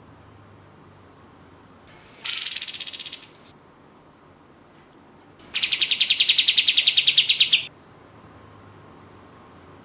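Kapas tembak songbird giving two rapid trills of repeated shrill notes, about ten notes a second: a short burst about two seconds in and a longer one of about two seconds starting past the five-second mark.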